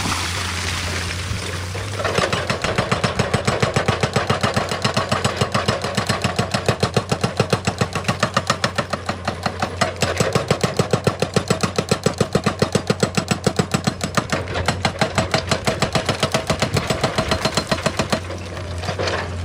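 Excavator-mounted hydraulic rock breaker hammering at stone in a fast, even stream of several blows a second, over the excavator's diesel engine. The hammering starts about two seconds in and stops shortly before the end, leaving the engine running.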